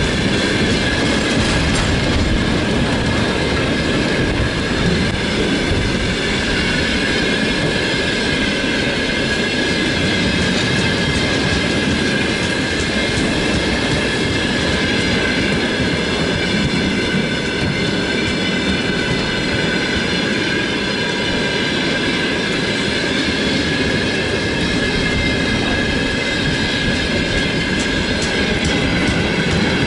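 Freight train of tank cars hauled by a VL10 electric locomotive, rolling steadily on the rails: a continuous rumble of wheels with a steady high ringing tone over it.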